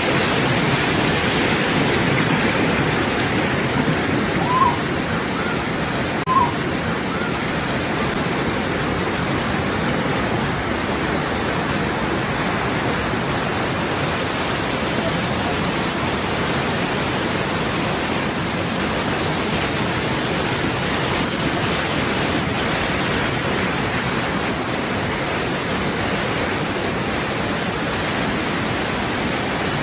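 Steady rush of water cascading over the rock terraces of Dunn's River Falls, with two brief short sounds about four and a half and six and a half seconds in.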